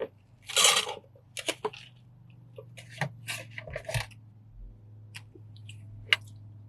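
Rustling and clicking of objects being handled, with one short hiss about half a second in, over a steady low hum.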